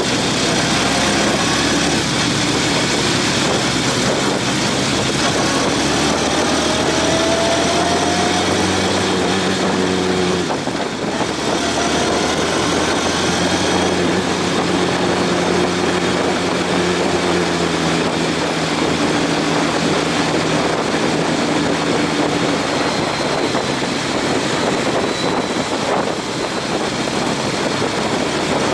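Honda CB750 motorcycle engine running under way with heavy wind rush. The engine note rises, dips briefly about eleven seconds in, then carries on at a steady pitch.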